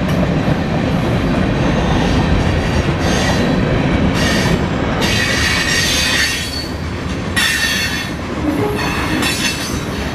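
CSX local mixed freight train's cars rolling past with a steady rumble of wheels on rail. Several spells of high-pitched wheel squeal come and go through the second half.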